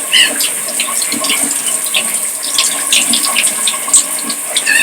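Shower water spraying steadily, with a hiss and many small spatters.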